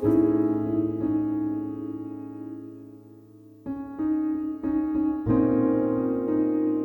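Background piano music: a chord struck at the start and left to fade for about three seconds, then fresh chords come in about 3.7 seconds in and keep going.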